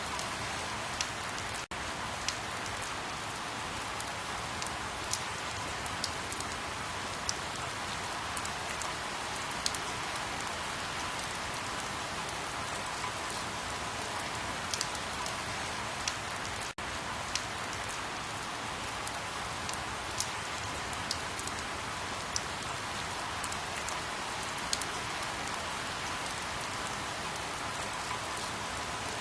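Steady rain falling in an even hiss, with many scattered sharper drop ticks. The sound drops out for a split second twice, about 2 s in and again about 17 s in.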